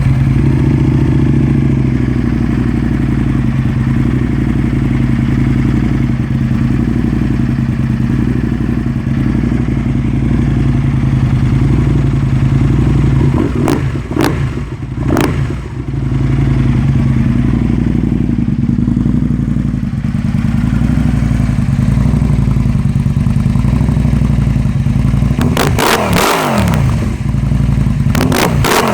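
2007 Aprilia Tuono's V-twin engine, just started, idling loudly through Delkevic short slip-on exhausts. It is blipped twice about 14 seconds in, and revved a few more times near the end.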